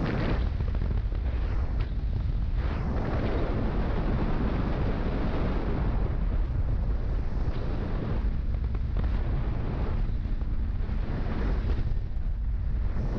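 Wind rushing over the microphone of a Kawasaki Z400 motorcycle ridden at highway speed, a loud low rumble that swells and fades in gusts, with the bike's engine running underneath.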